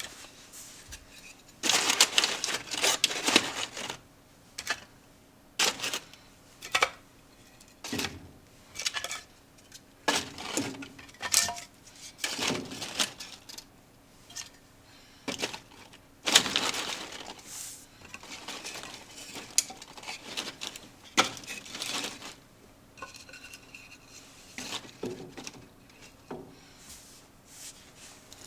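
Irregular clinking, clattering and rustling handling noises in short bursts, as of metal and wood being moved about at a fireplace being set up to light. The loudest run of clatter comes about two seconds in, and another about sixteen seconds in.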